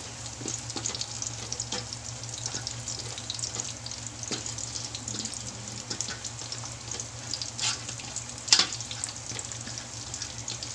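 Alamang shrimp patties (okoy) frying in hot oil in a wok: steady sizzling with frequent small crackles and pops, and a sharper, louder pop near the end.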